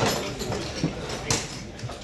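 Knocks and clatter from hands-on repair work on a rally car. One sharp knock comes at the start and a louder one just over a second in.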